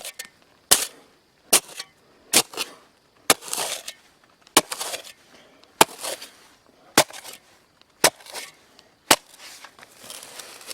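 Shovel being driven into dense clay soil, about once a second: a sharp strike each time followed by a short scrape of soil.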